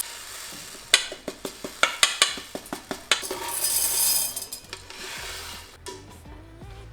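Dry rice and kitchen containers being handled: a quick run of clicks and rattles, then a brief rushing hiss of grains pouring about four seconds in.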